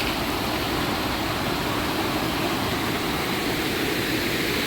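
Steady rushing of water from a roadside waterfall swollen by heavy overnight rain.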